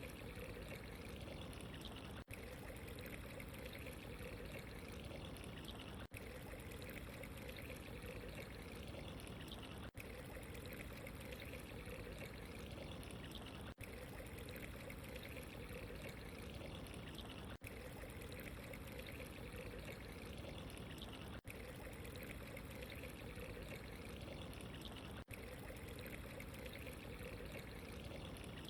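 Faint, steady running water, trickling and pouring, with a very brief dip in level roughly every four seconds.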